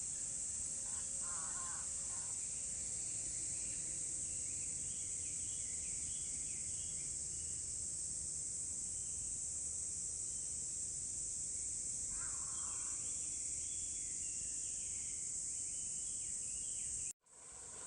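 Rural outdoor ambience: a steady high-pitched insect drone with small birds chirping and a crow cawing twice, about a second in and again around twelve seconds. The sound cuts out abruptly shortly before the end.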